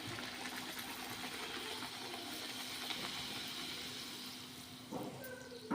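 Puri frying in hot oil: a steady sizzle, with a faint low hum underneath.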